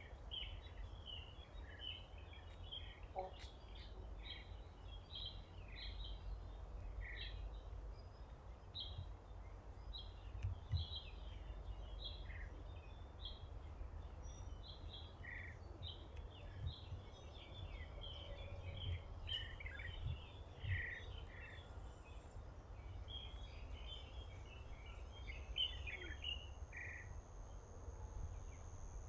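Birds chirping: many short calls in quick succession throughout, over a low steady background rumble.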